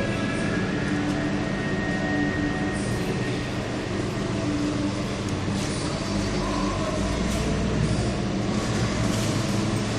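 Steady arcade din around a claw machine: a constant hum and wash of noise with faint held machine tones. A low rumble comes in about six seconds in.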